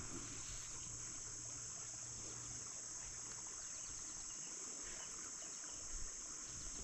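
Steady, high-pitched chorus of insects, with a faint low hum underneath that fades out about four seconds in.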